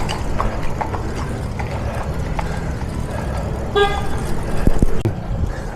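Steady low traffic rumble on a city road, with one short vehicle horn toot nearly four seconds in.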